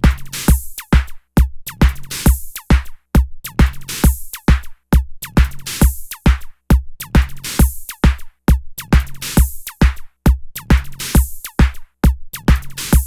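Electronic music in three-four time: a drum-machine beat of punchy kick drums and bursts of hiss, broken by short abrupt silences that recur in a regular pattern.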